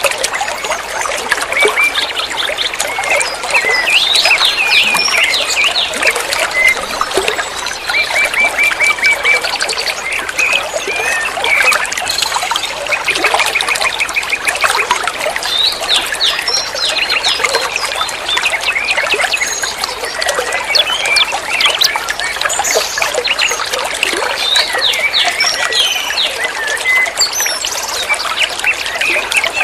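Water trickling and flowing steadily, with many small birds chirping over it throughout, including several quick trills.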